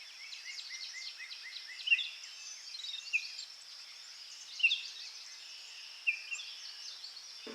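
Birds chirping: a quick run of short, falling chirps in the first two seconds, then scattered, higher, sharper chirps, over a faint steady hiss.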